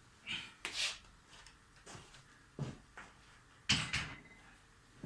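Dishwasher part, most likely the lower dish rack, being pulled out and removed: a series of short knocks, clatters and scrapes, the loudest cluster about four seconds in.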